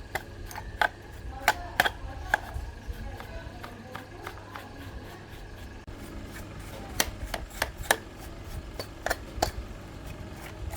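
Irregular sharp clicks and taps of hand tools being handled, over a low steady hum.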